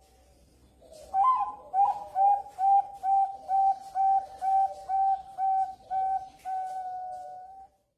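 Young Bangkok-strain zebra dove (perkutut) cooing: about a dozen short, clear coos at roughly two a second, ending in one long held note.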